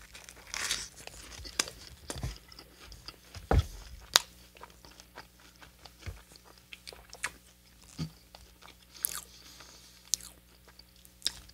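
Close-miked biting and chewing of a Hot Cheetos–crusted fried chicken sandwich on a soft bun, with many short crunches and clicks scattered throughout.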